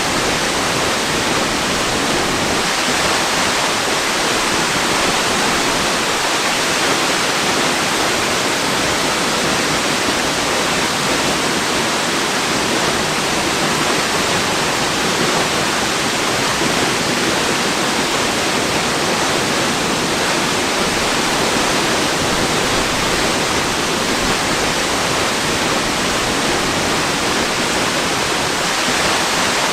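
Waterfall, its falling water making a steady, unbroken rush that is hissy, with little deep rumble.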